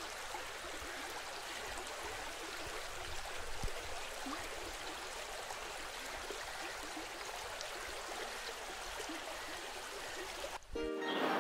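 Steady rushing and gurgling of flowing stream water. Near the end it cuts off abruptly and music begins.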